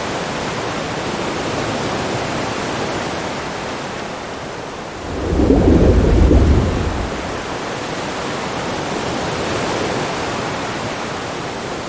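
Steady rushing underwater ambience, with a deep rumble that swells about five seconds in and fades after about two seconds.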